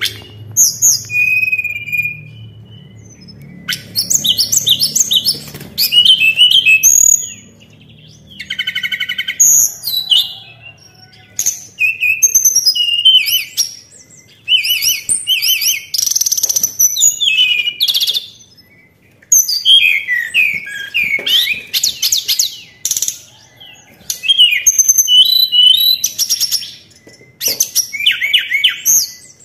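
A tledekan songbird singing: bursts of quick, varied, high whistled and chirping phrases, each lasting a second or two, with short pauses between them.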